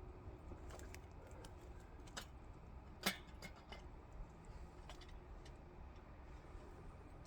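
Faint, irregular small clicks and ticks over a low steady rumble, with one sharper click about three seconds in.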